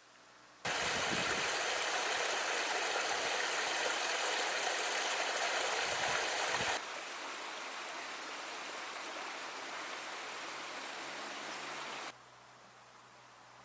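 Rushing water of a waterfall: a steady, even rush that starts abruptly about a second in, drops to a quieter level about halfway through, and cuts off shortly before the end.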